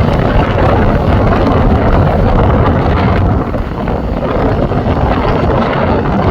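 Strong gusty wind rumbling on the microphone over the steady noise of an Airbus A321-231's jet engines, its IAE V2500 turbofans.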